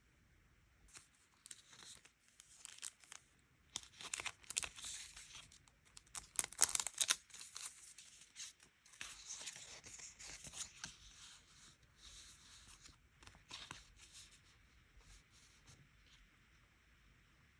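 Paper being handled close up, with crisp tearing and crinkling in irregular bursts, loudest about seven seconds in and dying away after about fourteen seconds.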